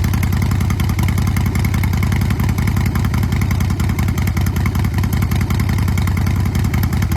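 Harley-Davidson V-twin engine of a 2014 Softail Breakout CVO idling steadily through Vance & Hines aftermarket exhaust pipes, a loud, even run of deep exhaust pulses.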